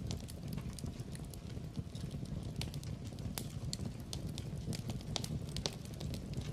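Wood fire crackling in a fireplace: frequent sharp, irregular pops and snaps over a low, steady rumble of the flames.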